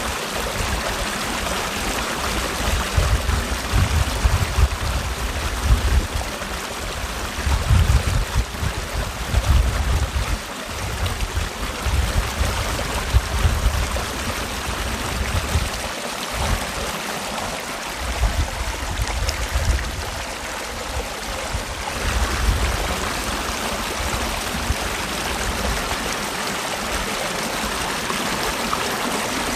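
Mountain valley stream rushing steadily over rocks, with irregular low rumbles coming and going underneath.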